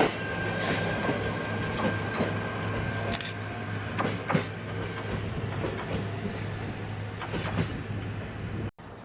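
Former JNR-type electric train pulling away from a station, with a steady motor hum and whine and a few sharp clacks of wheels over rail joints. The sound cuts off abruptly near the end.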